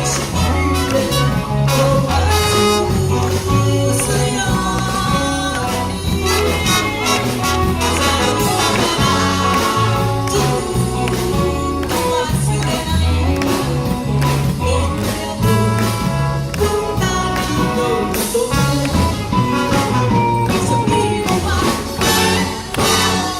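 Live band playing jazz, with a steady bass line under several melodic lines.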